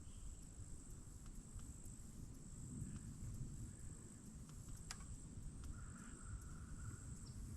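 Insects trilling in a steady high continuous drone, with a low rumble and a few faint clicks underneath.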